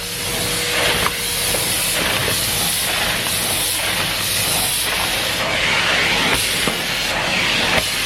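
Numatic Henry Pet cylinder vacuum cleaner running, a steady rushing suction noise with an airy hiss that swells and fades about once a second, and a few light knocks.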